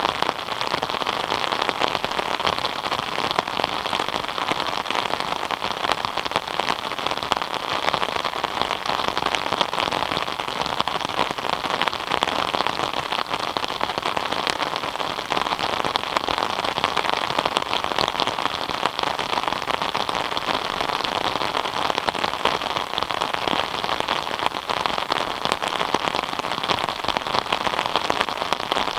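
Steady rain falling, with dense fine drop patter and no letup.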